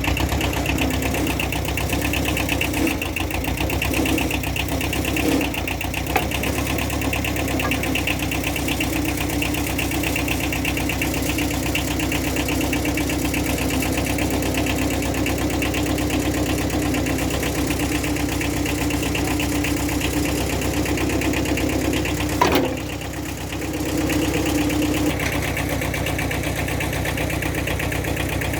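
An engine idling steadily, with a sharp click about three-quarters of the way through and a brief dip in the engine sound just after.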